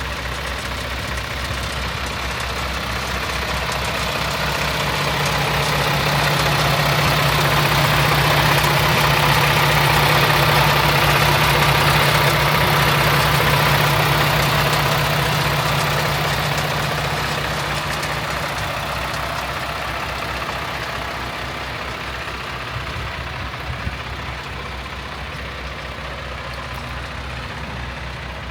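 Paccar MX-11 diesel engine of a 2021 Peterbilt 579 idling steadily; it grows louder over several seconds and then fades back again.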